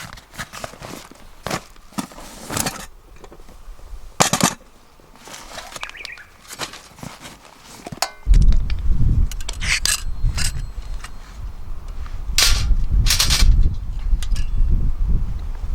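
Scattered sharp clicks and knocks, then from about eight seconds in a heavy low rumble with more knocks over it.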